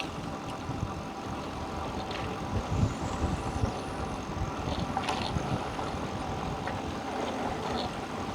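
Eahora Urban electric bike in motion: steady rolling and wind noise, with a few low thuds about three seconds in.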